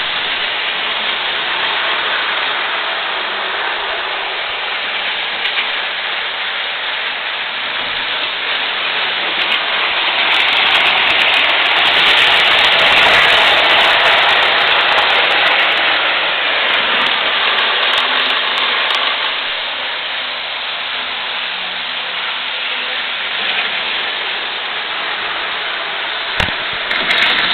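Electric model trains running on the layout's track: a steady rushing rattle of wheels and motors that swells louder for a few seconds in the middle, as a train passes close, with a sharp click near the end.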